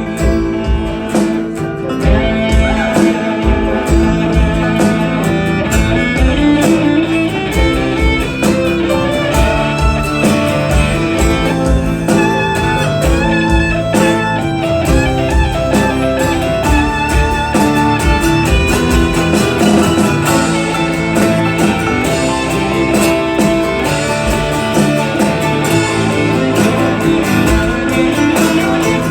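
A band playing an instrumental break in a country-rock song, with no singing, over a steady beat.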